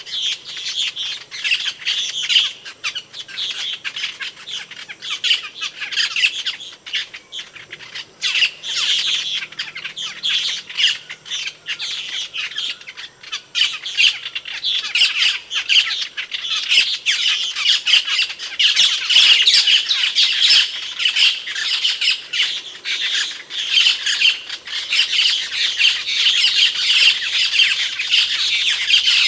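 Asian glossy starling (cucak keling) calling loudly: a rapid, near-continuous stream of sharp, loud calls.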